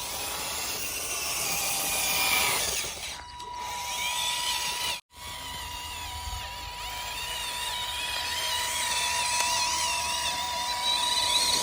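Small electric gear motors of a homemade RC model tractor running with a whine whose pitch wavers. The sound drops out briefly about five seconds in.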